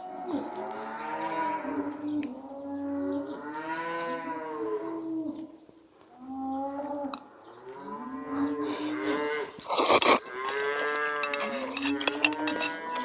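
Cattle mooing: a run of long calls, each rising and falling in pitch, one after another, with a short sharp knock-like noise about ten seconds in.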